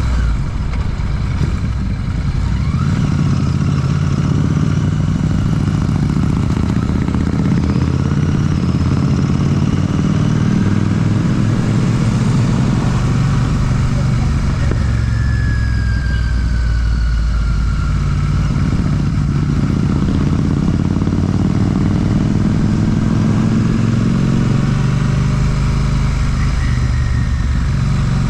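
Royal Enfield Classic 650's parallel-twin engine breathing through an aftermarket Ngage exhaust while riding, its note rising and falling as the throttle is opened and closed.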